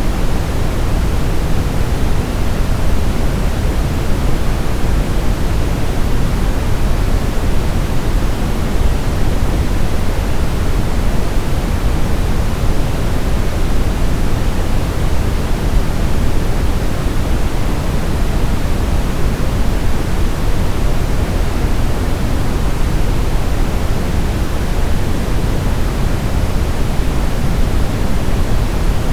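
Steady, unchanging white noise, weighted towards the low end so it sounds deep rather than hissy.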